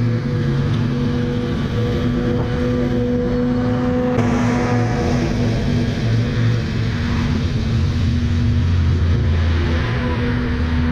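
Engine running steadily with a constant droning hum; the sound shifts and grows noisier about four seconds in.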